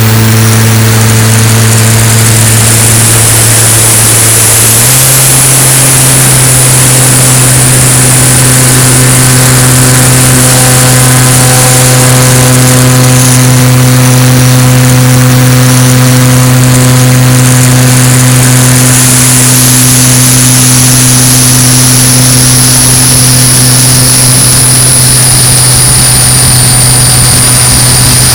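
Cessna 170's six-cylinder piston engine and propeller running steadily at cruise or climb power, with a slight step up in engine speed about five seconds in.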